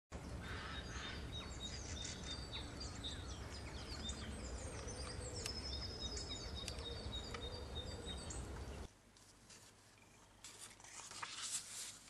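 Birds chirping and trilling, many short calls and sweeps over a steady low rumble, cutting off abruptly about nine seconds in. Soft rustling of paper being handled follows near the end.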